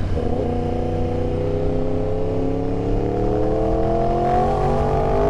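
Yamaha R1's inline-four engine pulling in gear, its pitch rising steadily as the bike accelerates.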